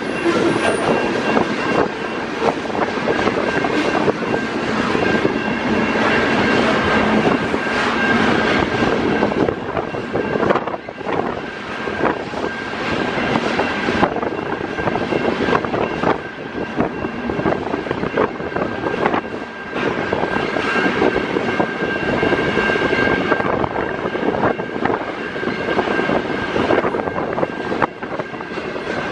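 Freight train of tank cars and covered hoppers rolling past: a continuous rumble and clatter of wheels on the rails, with a thin, steady high tone running through it.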